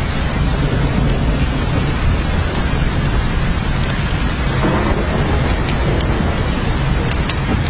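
Steady heavy rain, with many sharp drop ticks over a deep, even rumble; a brief swell in the middle of the sound comes about five seconds in.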